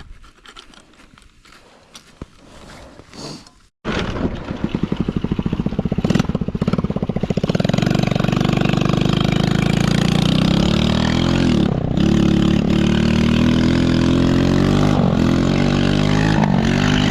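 Small single-cylinder four-stroke engine of a Chinese 110cc ATV running under throttle while being ridden, its pitch rising and dipping several times. Before it there are about four seconds of faint rustling, and then the engine sound comes in abruptly.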